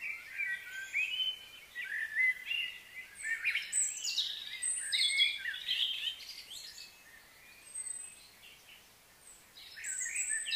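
Several birds chirping and calling, with quick short notes that glide up and down. The chatter is busy at first, thins out about two thirds of the way through, then picks up again near the end.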